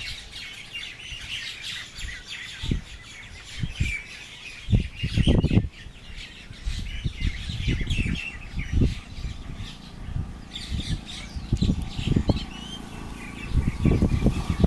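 Parrot calling with a dense run of chirps and squawks, other birds chirping along. Low thumps and rumble come and go underneath, loudest about five seconds in.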